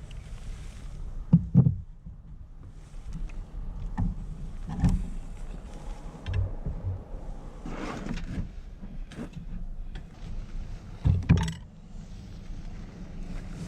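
Irregular knocks and clunks on a kayak, some in quick pairs, over a steady low rumble.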